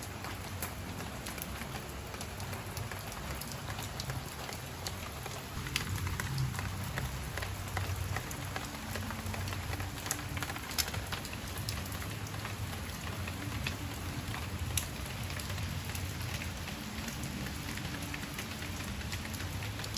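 Rain falling steadily: a dense, even hiss with many scattered sharp ticks of single drops.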